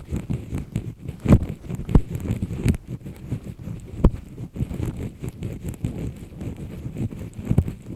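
Close-miked double-disc earpick scraping and scratching inside an ear canal in firm strokes: an irregular rustling with sharp, louder scrapes about every second or two.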